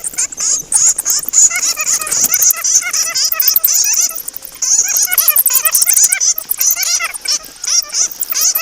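Flying foxes (kalong fruit bats) squeaking and chattering in a dense stream of rapid, overlapping high-pitched calls, broken by short pauses.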